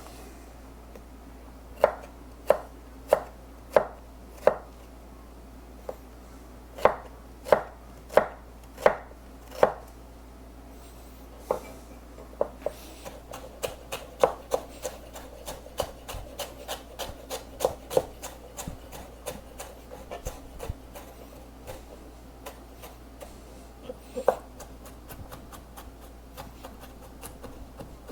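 Kitchen knife chopping fresh ginger on a cutting board: a series of separate firm strokes, then a quicker flurry of small dicing chops in the middle, then a few scattered cuts.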